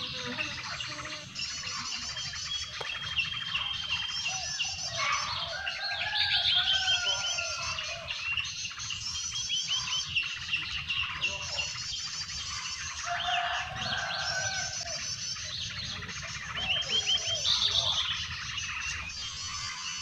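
Songbirds calling: a short, high trill repeats at even intervals about every two seconds, mixed with other chirps and whistles.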